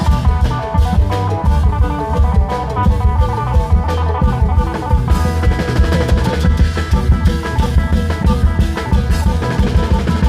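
Thai klong yao long-drum troupe playing: dense, fast drumming with a melody line carried over it.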